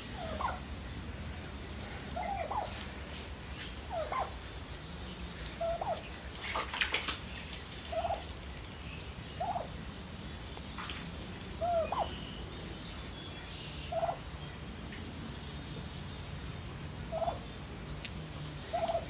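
Bronze turkey giving about a dozen short calls, each rising then falling in pitch, spaced a second or two apart. Faint high chirps run underneath.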